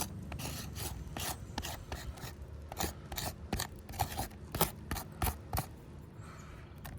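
Gritty rubbing and scraping on asphalt roof shingles: a run of short, irregular rasping strokes, a few a second.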